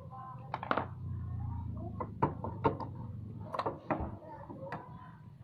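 Several sharp, separate knocks and clicks of hand tools and motorcycle engine parts being handled during a teardown, with a low hum underneath for the first two seconds.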